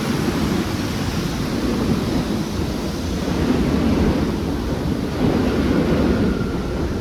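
Wind buffeting the microphone: a loud, rough rumble that swells and dips, heaviest in the low end.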